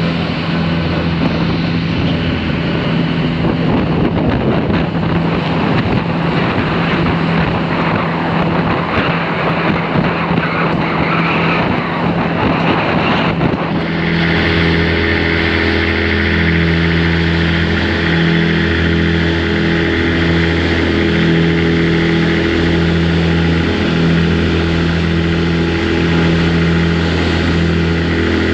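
A vehicle engine running steadily with small shifts in pitch, heard from on board. The sound changes abruptly about halfway through.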